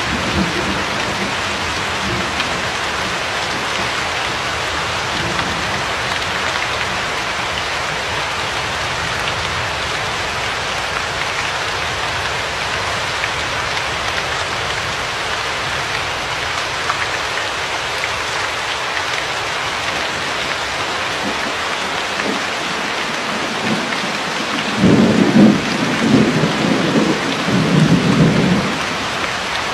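Steady heavy rain falling. About 25 seconds in, a low rumble of thunder rolls for about three seconds over the rain.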